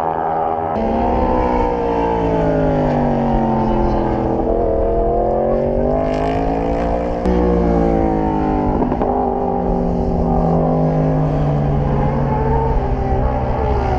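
Motorcycle engine running under way, its pitch sinking as it slows, then climbing as it speeds up, with a sudden jump about halfway through and another slow fall and rise after that.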